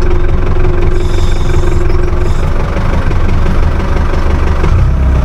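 Tractor engine running steadily, its note changing about two seconds in and getting deeper and louder near the end.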